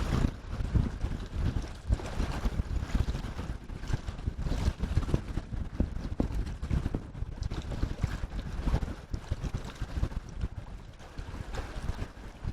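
Wind buffeting the microphone in uneven gusts, a low rumble that swells and drops from moment to moment.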